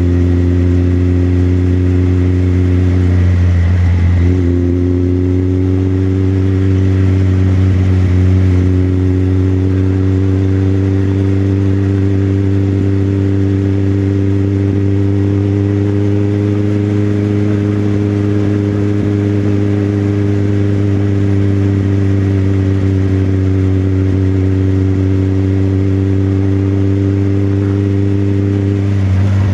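Motorcycle engine running steadily at cruising speed, its note holding an even pitch, with a brief break and change in pitch about four seconds in.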